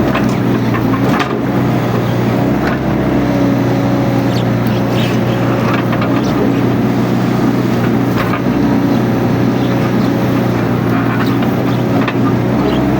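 Mini excavator's diesel engine running steadily under work, with scattered short clicks and cracks.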